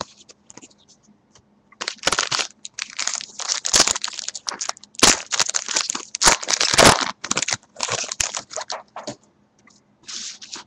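Foil wrapper of a baseball card pack being torn open and crinkled by hand, a run of irregular crackles and rustles with short pauses, starting about two seconds in and coming back briefly near the end.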